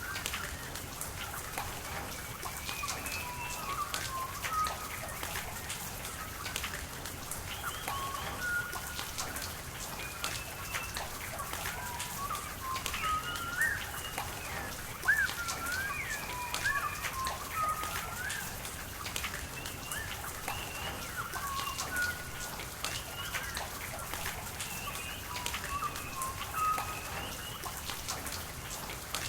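Steady rain falling, with fine drops pattering, under many short bird calls that rise and fall in pitch and come one after another throughout.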